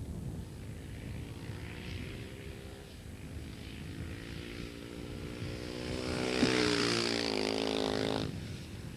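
Husqvarna 610 dirt bike's single-cylinder four-stroke engine running. It grows louder from about halfway through, is loudest for a couple of seconds near the end, then drops off sharply.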